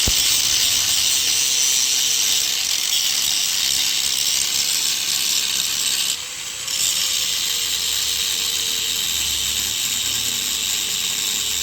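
Steady, loud mechanical running noise from power machinery, a hissy rattle with a faint steady tone under it. It starts abruptly and dips briefly about six seconds in.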